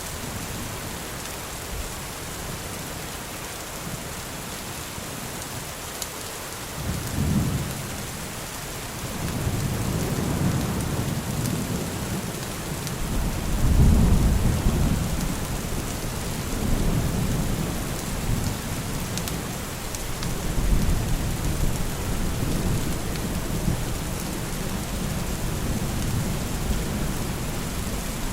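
Steady rain with thunder: a short rumble about seven seconds in, then a long rolling rumble from about nine seconds on, loudest around fourteen seconds.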